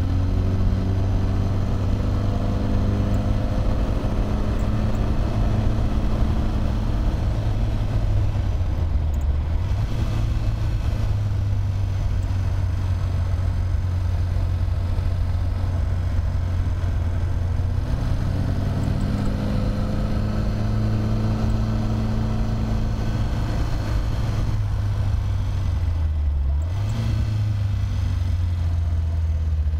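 Triumph TR3A's four-cylinder engine running hard under load, its pitch rising and falling with the revs. The note dips briefly twice, about nine and twenty-six seconds in.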